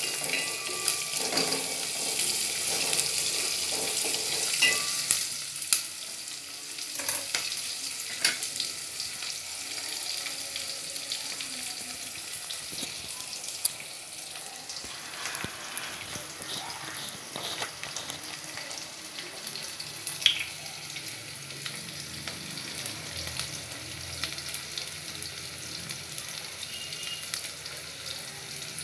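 Sliced onions, curry leaves and chillies sizzling in hot oil in a metal pot, stirred with a spatula that knocks and scrapes against the pot now and then. The sizzling is louder for the first six seconds or so, then settles lower.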